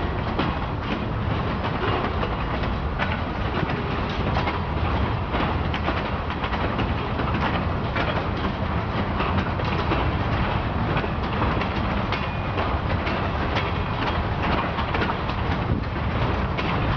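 Freight cars of a Norfolk Southern train rolling past steadily, a continuous rumble with wheels clicking over rail joints.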